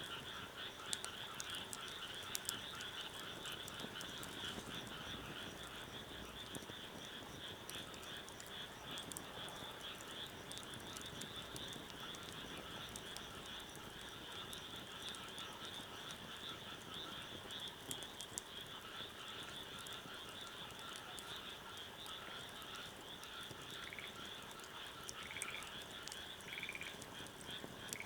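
A dense chorus of many frogs calling continuously, with a few sharp clicks scattered through it. Near the end a short rising call starts repeating about every second and a half.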